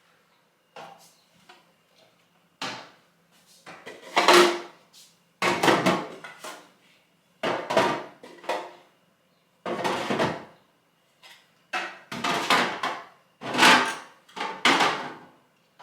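Plastic fridge organiser boxes knocking and clattering against fridge shelves and drawers as they are put in and moved around, in a series of separate bumps and scrapes.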